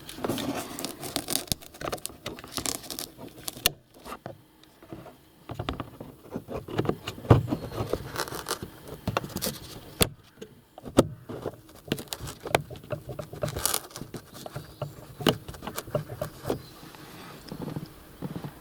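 Hand work on car interior parts: irregular clicks, scrapes and small rattles of handling plastic trim, fittings and screws, with brief pauses about four seconds in and around ten seconds in.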